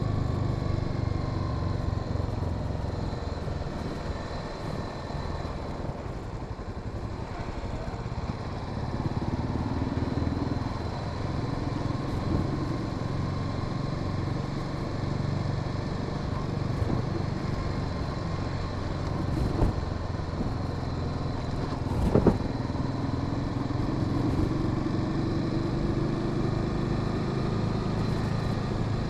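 Honda Sahara 300's single-cylinder engine running under way, its pitch rising twice as the bike accelerates. There is one sharp knock about three quarters of the way through.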